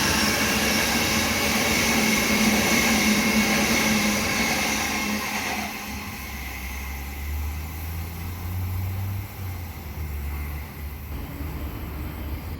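An electric suburban train passing through the station, running loud with a steady whine, then fading away about six seconds in and leaving a low rumble.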